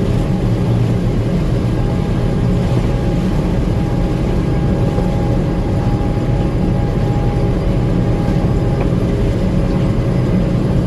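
Gleaner M2 combine running steadily while harvesting corn: a constant engine and machinery drone with a thin whine over it that drops away near the end.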